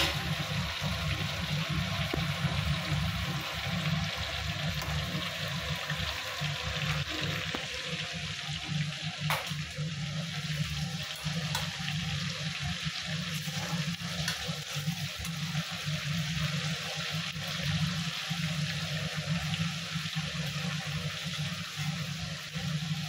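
Chicken pieces frying in hot oil: a steady sizzle.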